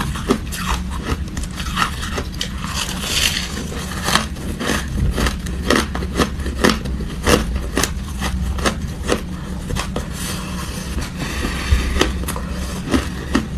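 Hard ice being chewed: a quick, irregular run of sharp cracks and crunches, over a steady low hum.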